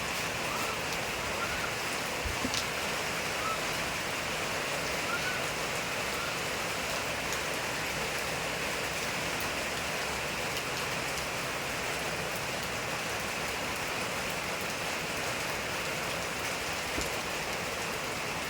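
Steady rain falling, an even hiss with the odd drop ticking.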